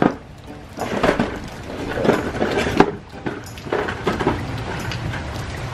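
A string of irregular knocks and clatters, like things being handled and bumped. Steady rain hiss builds up near the end.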